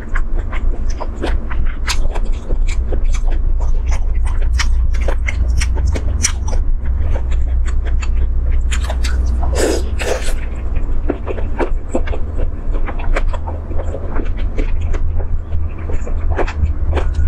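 Close-miked mouth sounds of a woman eating chicken feet in chili-garlic sauce: wet smacking and chewing clicks, with one longer, louder slurp about ten seconds in. A steady low hum runs underneath.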